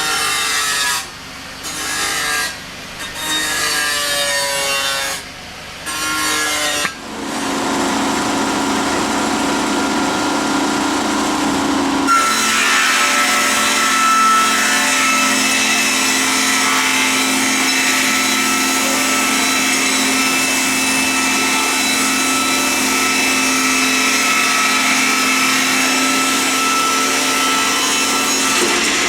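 Multi-rip edging saw with 250 mm blades cutting wood. At first it comes in short bursts with brief breaks. Then it settles into a steady cut that grows louder and harsher about twelve seconds in as a board feeds through the blades without a break.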